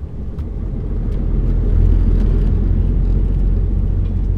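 Lorry's diesel engine running under way with road noise, heard from inside the cab. It grows louder over the first two seconds and then holds steady.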